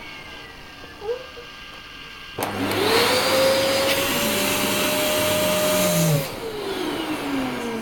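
Vacuum cleaner switched on about two and a half seconds in, its motor whine rising quickly to a steady pitch. A few seconds later it is switched off, and the whine falls in pitch as the motor winds down.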